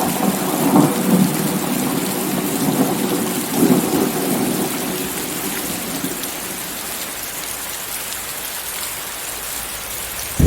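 Steady heavy rain hiss with rolling thunder rumbling in swells, strongest about a second in and again around four seconds, then fading and leaving mostly rain.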